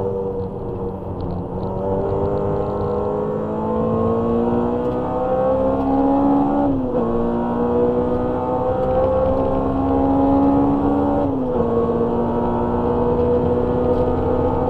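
Honda Civic EG6's engine, heard from inside the cabin, pulling hard under acceleration: its note rises steadily, drops abruptly with an upshift about seven seconds in and again about eleven seconds in, then climbs once more.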